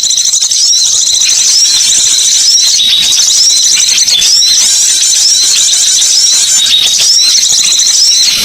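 Many small songbirds chirping and twittering at once in a dense, continuous high-pitched chatter: a bird-lure call recording.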